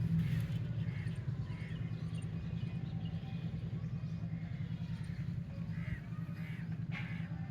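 Low, steady rumble that slowly fades, with faint short high chirps scattered over it.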